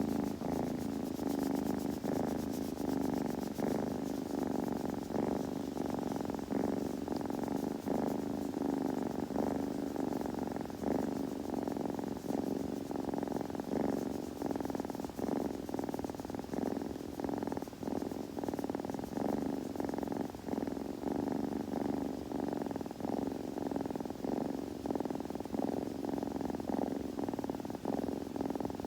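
Kitten purring steadily, pulsing evenly about twice a second.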